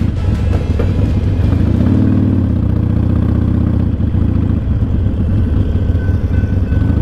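A Harley-Davidson Sportster 1200's air-cooled V-twin engine running at low road speed, heard from the saddle, its revs rising briefly about two seconds in.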